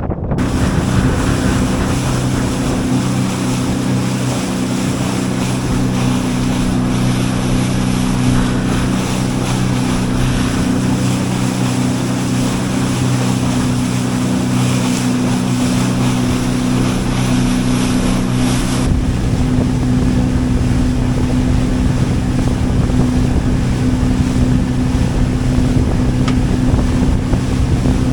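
Outboard motor on a small fishing boat running steadily under way, with wind rumbling on the microphone and water noise. About two-thirds of the way through, the sound changes abruptly: the high hiss drops away and the low wind rumble grows, while the engine's tone carries on.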